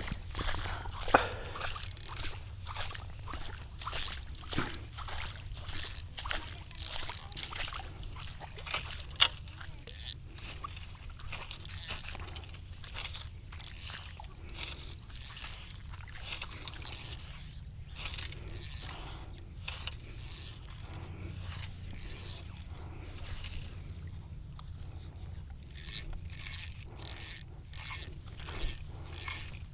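Insects calling: a steady high buzz with short chirps repeating every second or so, quickening to about two a second near the end.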